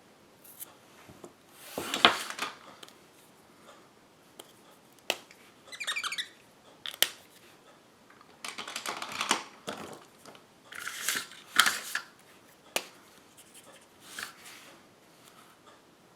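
Paper and card stock being handled and worked by hand: intermittent rustles and scrapes with a few sharp clicks and a brief squeak.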